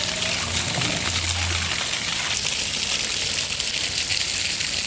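Water gushing steadily, an even rushing sound.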